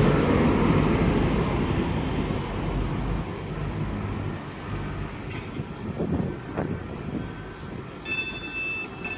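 Two coupled ScotRail Class 334 electric multiple units running into the platform and slowing. Their rumble fades steadily as the train comes to a stand. A steady high tone starts near the end.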